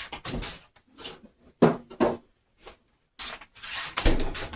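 A kitchen cupboard being opened and gone through, a series of short knocks and clunks as things are moved around, with the loudest about one and a half seconds in and again near the end.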